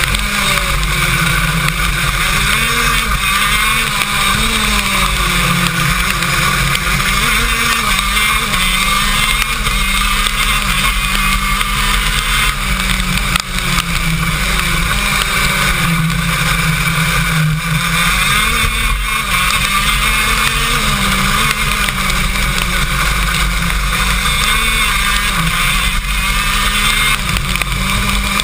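KZ2 shifter kart's 125cc two-stroke engine heard onboard, its pitch rising and falling again and again as the driver accelerates and lifts around the lap, over a steady hiss.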